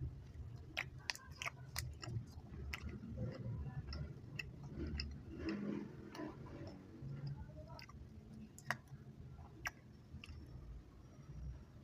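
Close-miked chewing of chewy chocolate candies: irregular wet mouth clicks and smacks, a few louder than the rest.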